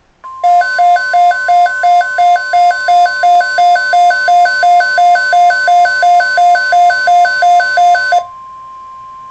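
Electronic emergency-alert tones: a steady single-pitch warning tone with a loud pulsing alarm tone beeping about three times a second over it. Near the end the beeping stops and the steady tone carries on alone, quieter.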